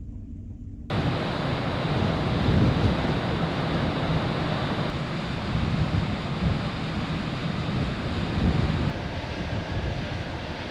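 Wind blowing on the microphone over the rush of the sea and the low rumble of a ferry under way. After about a second of low rumble alone, the wind and water noise starts suddenly and stays loud and steady.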